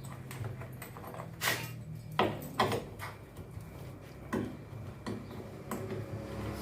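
Scattered knocks and clicks of tools and parts being handled while counterweights are taken off a washing machine's tub, about half a dozen sharp strikes over a steady low hum.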